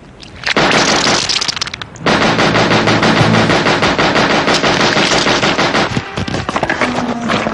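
Sustained automatic gunfire from a film soundtrack: a first volley about half a second in, then near-continuous rapid fire from about two seconds in.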